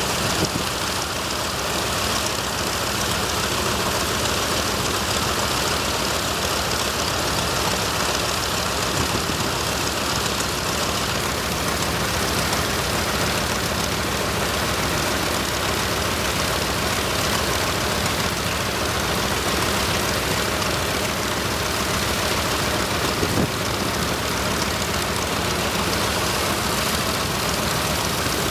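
The original Nakajima Sakae 21 fourteen-cylinder radial engine of an A6M5 Zero fighter running steadily on the ground, its level unchanging throughout.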